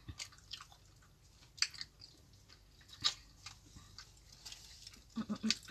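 People chewing and biting into sandwiches: scattered soft mouth clicks and small crunches of bread.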